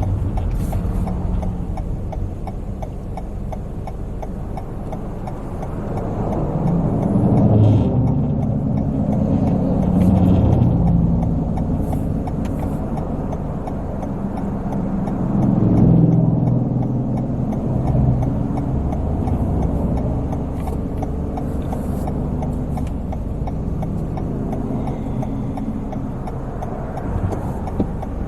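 Car engine and road noise while driving, swelling twice as the car picks up speed.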